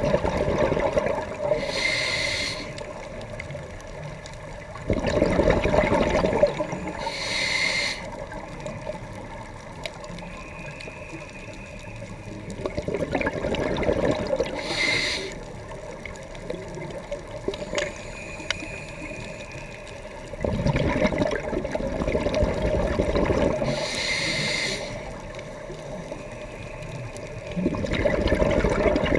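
Scuba diver breathing through a regulator underwater: a brief hiss on each inhale, then a longer rush of exhaled bubbles, about four breaths in all.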